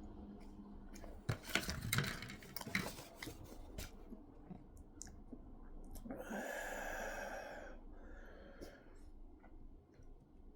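Close-up chewing and wet mouth clicks from eating a Reese's peanut butter heart, busiest between about one and three seconds in, with a long breath about six seconds in.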